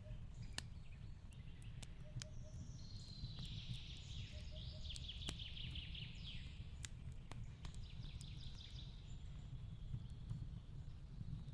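Fireplace crackling, with scattered sharp pops, over forest birdsong of repeated chirps and trills, all above a low steady rumble.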